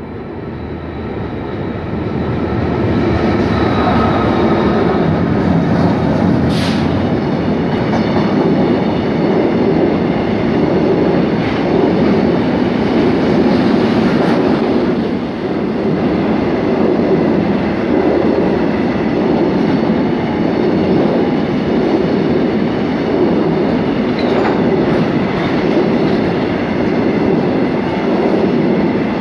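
A freight train of tank wagons rolling past close by: a loud, steady rumble of steel wheels on rails that builds over the first few seconds and then holds, with faint thin high whining tones above it.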